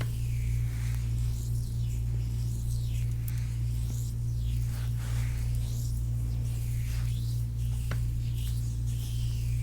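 Hands rubbing and stroking bare skin in a foot massage, soft swishes repeating about once a second, over a steady low hum. A single sharp click comes about eight seconds in.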